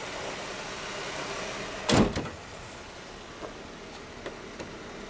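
Jeep Wrangler's hood slammed shut once, about two seconds in, followed by a few faint clicks.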